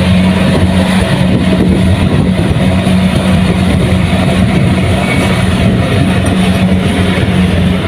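Kubota rice combine harvester's diesel engine running steadily under load, a constant low drone with machinery noise over it.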